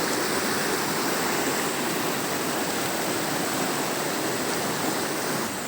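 Mountain river rushing over rocks, a steady churning noise of fast water that drops a little just before the end.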